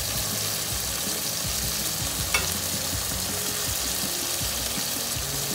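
Chicken pieces sizzling steadily in hot oil with fried onions in a pot over medium heat. A single sharp tap sounds a little over two seconds in.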